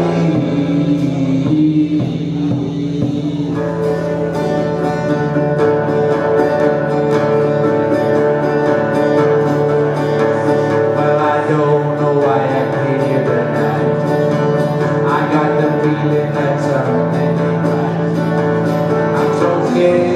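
Live acoustic duo playing an instrumental break: acoustic guitar with a long-held melody line over it that bends in pitch in places.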